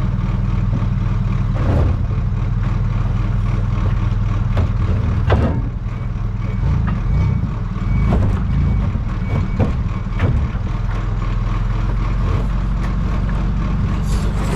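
Heavy truck's engine running steadily, with several sharp knocks and clunks over it.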